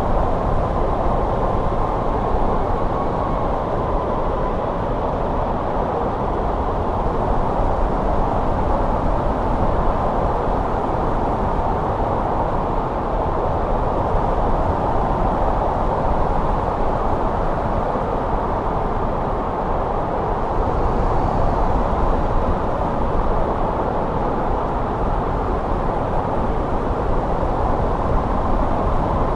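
Winter wind blowing steadily: an even, deep rush of noise with no gusts or breaks.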